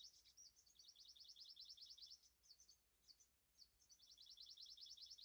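A small bird's faint, rapid, high chirping trill of about a dozen notes a second. It breaks into scattered notes midway, then runs steadily again near the end.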